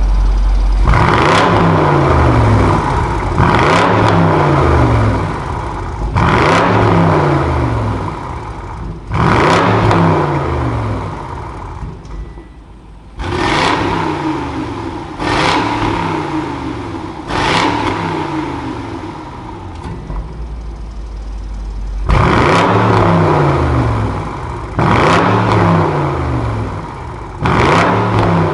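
BMW M850i twin-turbo V8 revved repeatedly through a Junbiel Brillante valved aftermarket exhaust: about ten sharp blips, each rising quickly and falling back toward idle, with the engine settling to a quieter idle twice along the way.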